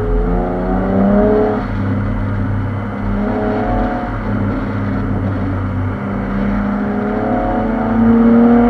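2014 Chevrolet Camaro accelerating on its new aftermarket exhaust, the engine note climbing in pitch, then dropping back at each gear change, three pulls in all over a steady low exhaust rumble.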